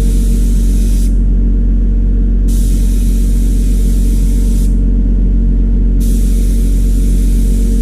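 Water spray hissing over a steady motor hum while an air-conditioner condenser coil is cleaned. The spray stops twice, a second or so each time, and starts again.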